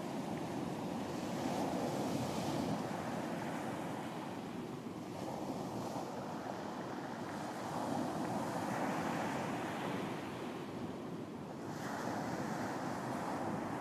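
Ocean waves breaking and washing on a beach, a steady rush that swells and eases every few seconds, with some wind.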